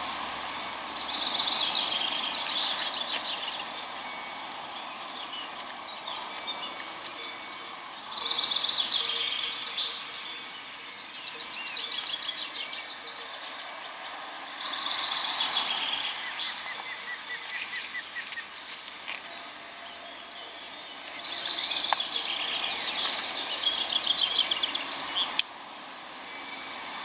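Songbirds singing in short, high, fast-trilled phrases every few seconds over a steady background noise.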